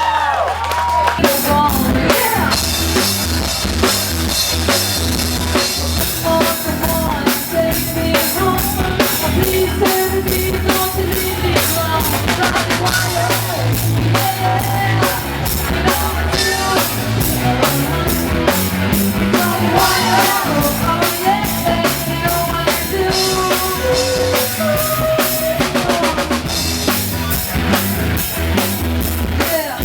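Rock band playing: a drum kit keeping a steady beat with bass and guitar over it.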